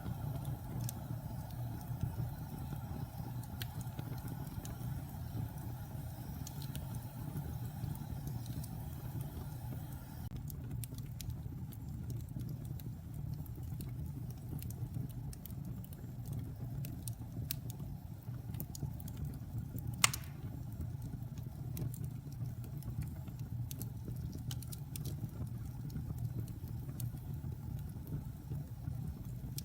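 Wood fire in a fireplace crackling, with scattered small snaps and one louder pop about two-thirds of the way through, over a steady low rumble.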